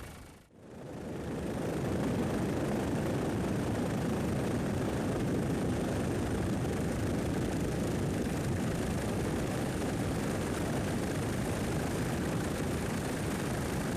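Steady helicopter engine and rotor noise, the sound picked up during aerial filming, after a brief dip to near silence at a cut about half a second in.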